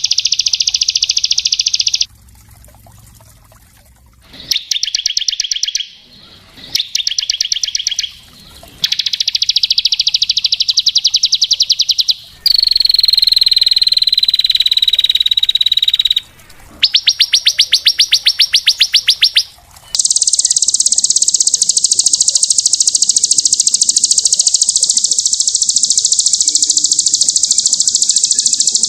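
A small songbird's fast, tightly packed trills, edited into short bursts that start and stop abruptly. One passage has a falling whistled note. From about two-thirds of the way through, a single long, high, unbroken trill takes over.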